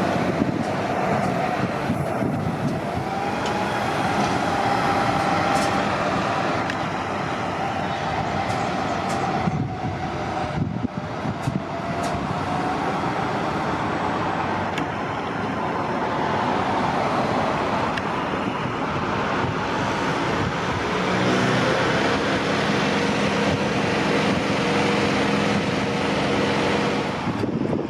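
City transit buses running and moving past in traffic. A whine glides up and down through roughly the first half, and from about two-thirds in a steady engine drone with several pitches sits over the traffic noise.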